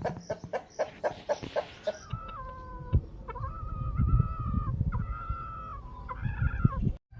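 Parrot-beak Aseel rooster giving a few seconds of short, sharp clucks, then one long drawn-out crow in several held segments, with low rumbling noise underneath.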